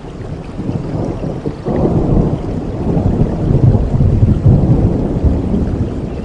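Steady rain with a deep rumble of thunder that swells about a second and a half in and rolls on through the rest.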